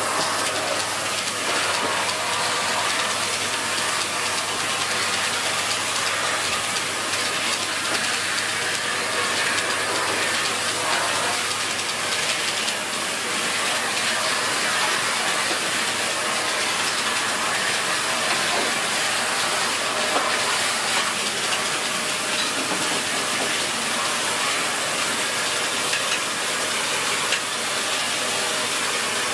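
Dyson Big Ball Animal cylinder vacuum cleaner running steadily: an even rushing hiss of suction over a constant motor hum.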